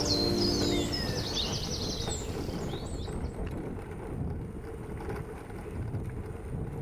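Woodland birds chirping for the first couple of seconds, then a steady low outdoor noise with only faint bird calls. A held music chord fades out about a second in.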